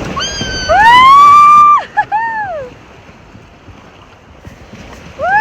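Children squealing with excitement. There is a long high "woo" that rises, holds and falls for over a second, then two short squeals. Steady rushing water and wind noise follows, and another squeal starts near the end.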